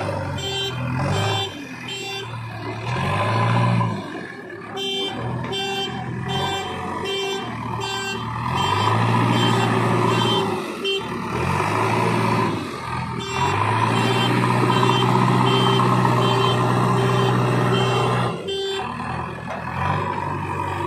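JCB 3DX backhoe loader's diesel engine running, its revs rising and falling as it works, with an alarm beeping about twice a second.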